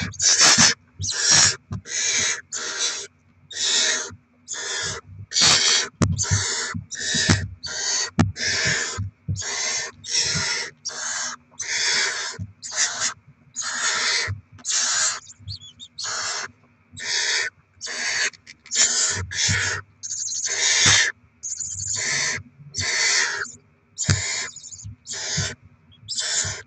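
Barn owl chicks food-begging, a long series of short rasping hisses (the 'snoring' begging call) coming one after another, about two a second, over a faint steady low hum.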